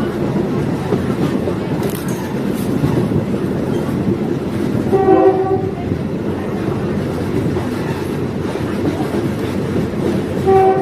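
Diesel multiple unit train running along the track with a steady rumble and wheel clatter, its horn sounding two short blasts, one about halfway through and a shorter one near the end.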